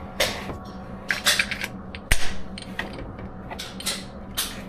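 Metal clicks and clacks of a Glock 30 Gen 4 pistol being handled, about five or six irregular sharp clicks with the loudest about two seconds in.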